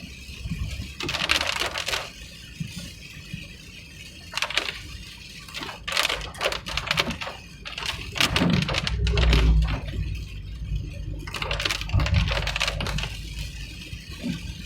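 A car driving along a road: a low rumble underneath, broken by several spells of quick, rattly clattering, heaviest between about six and nine seconds in and again around twelve seconds.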